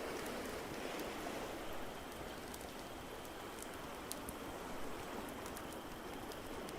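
A fireplace crackling, with scattered sharp pops over a steady watery hiss.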